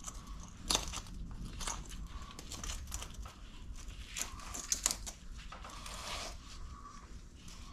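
Scattered clicks, scrapes and rustling of hands and tools working on the rammer's parts.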